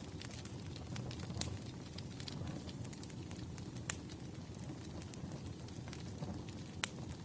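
Wood fire crackling: a low steady rumble of burning with scattered sharp pops, two of them louder, about four seconds in and near the end.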